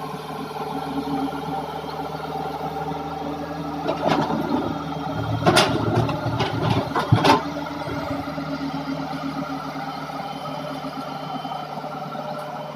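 Hitachi excavator's diesel engine running steadily, with a burst of knocks and clanks from about four to seven and a half seconds in as the machine works.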